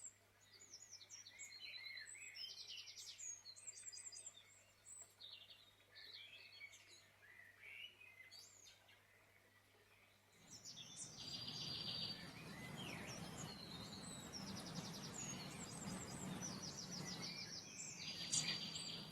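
Forest songbirds chirping and singing in quick high calls. About ten seconds in, the ambience changes to a steadier hiss with repeated fast trills.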